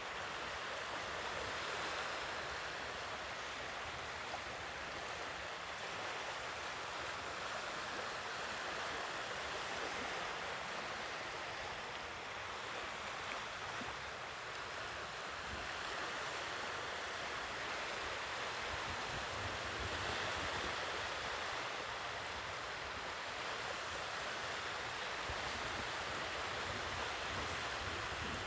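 Sea waves washing onto the shore, a steady rushing wash that slowly swells and eases every several seconds.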